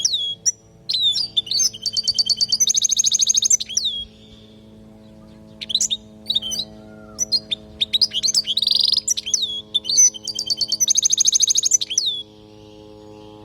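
European goldfinch singing: two long phrases of quick twittering and buzzy notes, each ending in a fast trill, with a pause of about a second and a half between them. A faint steady hum runs underneath.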